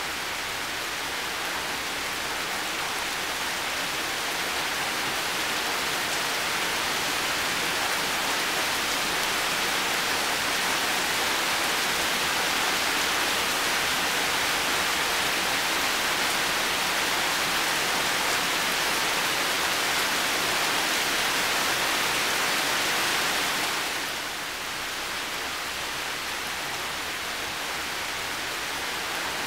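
Heavy rain falling steadily, a dense even hiss that swells gently at first and drops slightly about three-quarters of the way through.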